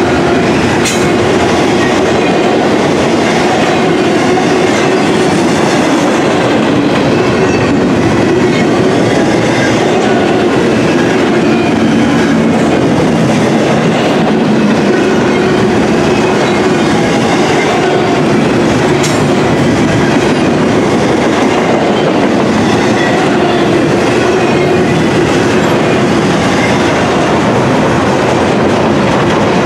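Double-stack intermodal container cars rolling past: a steady, loud rumble and clatter of steel wheels on the rails, with a few sharp clicks.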